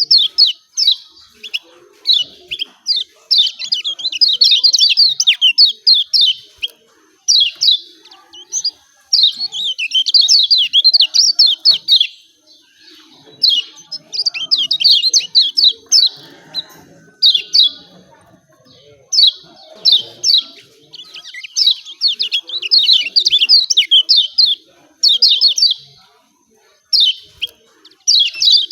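Kecial kuning (lemon-bellied white-eye) giving its rapid 'ciak ciak' chirping calls, high-pitched chattering bouts of a second or two repeated again and again with short pauses between.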